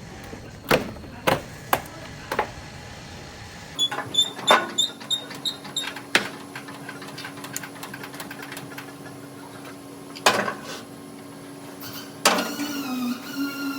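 Sharp knocks and clicks of tools at work on a car body, a few at a time, with a steady low hum joining about four seconds in.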